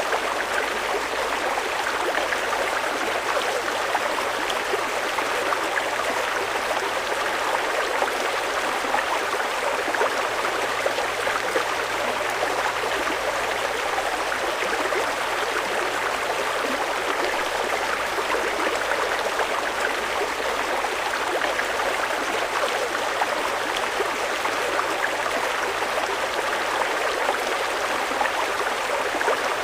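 Fast-flowing mountain river: a steady, even rush of water.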